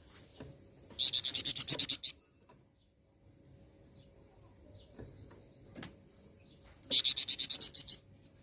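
Songbird (flamboyan) singing two rapid high trills about six seconds apart, each about a second long and made of some ten quick notes.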